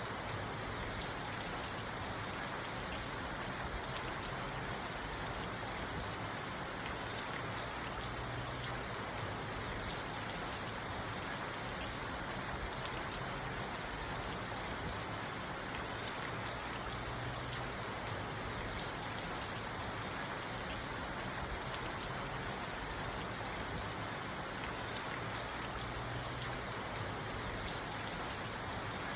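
Steady rain falling on a parked car's roof and windows, heard from inside the car: an even patter with no thunder.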